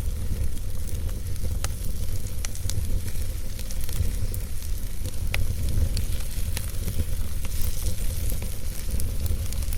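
Wood fire crackling in a fireplace: scattered sharp pops and crackles, about one a second, over a steady low rumble of the burning fire.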